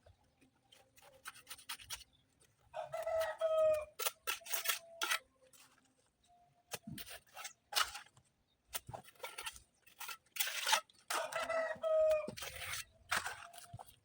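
A rooster crowing twice, each crow about a second long and dropping in pitch at the end, one a few seconds in and one near the end. Scattered knocks and short scraping noises of work go on between the crows.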